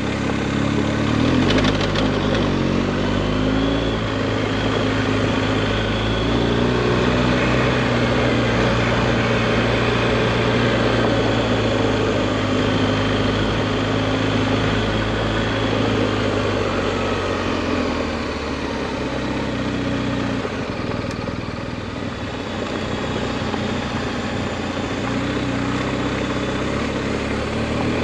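BMW GS Adventure motorcycle engine running under way on a dirt road, with road noise. It picks up speed about two seconds in, holds steady, eases off around eighteen seconds in, then picks up again.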